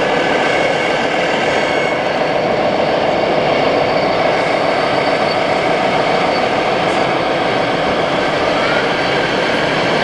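Steady mechanical running noise with several held tones: radio-controlled 1/14-scale model trucks and construction machines at work, their motors and engine-sound modules running.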